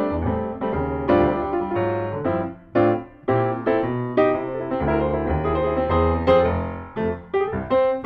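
Piano music: struck chords and notes in a steady, moderate rhythm, each note decaying after it is hit.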